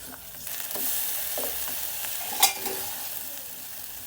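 Food sizzling as it fries in a pan while being stirred, with a few short scrapes and one sharp knock about two and a half seconds in.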